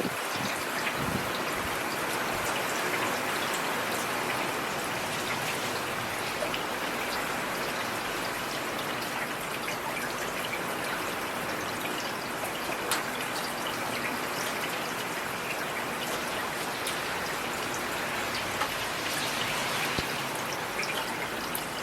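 Heavy rain falling steadily, an even hiss with scattered sharp drop impacts close by.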